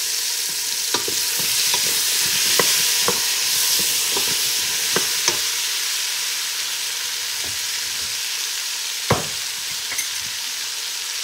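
Vegetables sizzling and hissing steadily in a stainless steel pot, with a wooden spatula clicking and scraping against the pot while stirring in the first half. One louder knock comes near the end.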